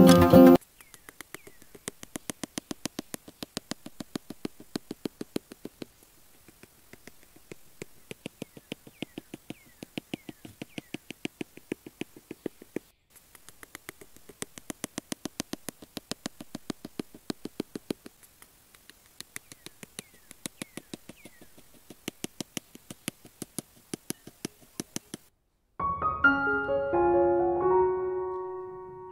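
A long series of sharp light taps or clicks, about five a second, in runs of a few seconds with short pauses. Piano music comes in about four seconds before the end.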